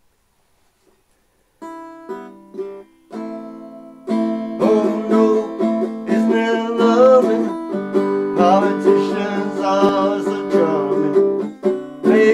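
Cigar box guitar playing an instrumental intro: a few separate plucked notes and a ringing chord, then from about four seconds in a continuous picked rhythm.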